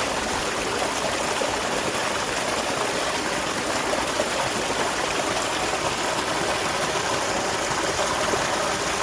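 Small waterfall splashing steadily into a stream, an even rushing of water.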